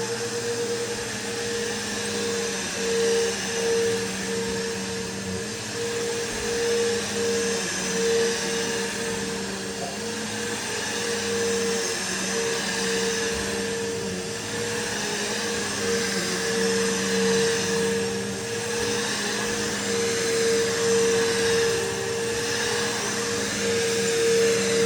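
Bissell PowerForce bagless upright vacuum running continuously on carpet, with a steady motor whine over airflow hiss that swells and dips slightly in loudness every second or two.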